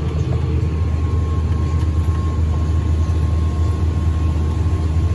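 Large farm machine's diesel engine running steadily under harvest load, a heavy low drone with a thin steady whine above it.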